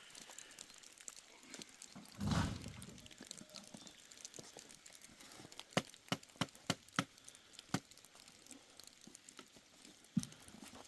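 A muffled thump about two seconds in, then a quick run of about six sharp knocks or clicks, and one more near the end, over a low steady hiss.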